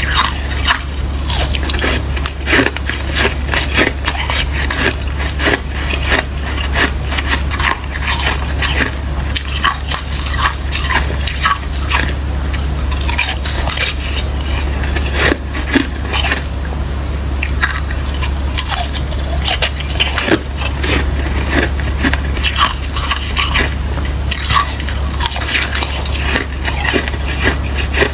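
Close-up biting and chewing of soft, watery slushy ice: a dense, irregular run of wet crunches and crackles. A steady low hum runs beneath.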